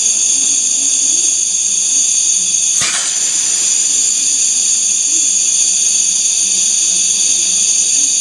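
Steady, high-pitched hiss of air rushing through the OKACLEAN-G while it runs with an exhaust tube attached, with a single sharp knock about three seconds in.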